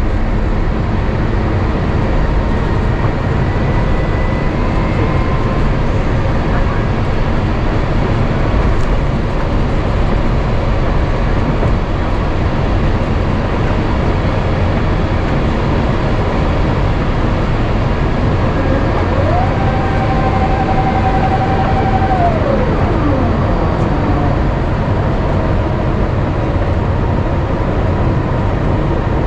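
Steady rumble and rush inside the cabin of an Airbus A350-900 on approach, from its Rolls-Royce Trent XWB engines and the air rushing past. About two-thirds of the way through, a short mechanical whine rises, holds for about three seconds, then falls away.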